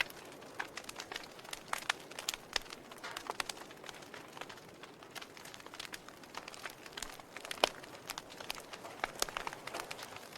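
Wood logs burning in a fireplace, crackling with irregular pops and snaps over a soft hiss; one louder pop about seven and a half seconds in.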